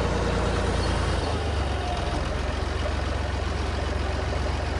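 Heavy diesel engine running steadily, a low rumble whose note shifts a little over a second in.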